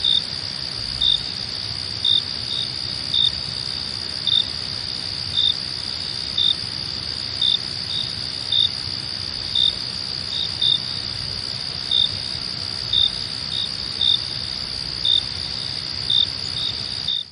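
Night insect chorus of crickets: a steady high trill, with louder chirps repeating about once a second.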